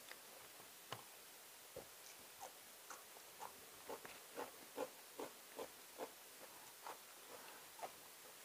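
A person chewing food with the mouth close to the microphone: a run of short, wet lip smacks at about two to three a second, loudest in the middle.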